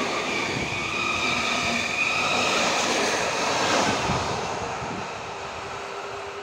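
Passenger coaches of an EP07-hauled intercity train rolling past on the rails, with a high steady whine over the running noise for the first few seconds. The sound then fades from about four seconds in as the train pulls away.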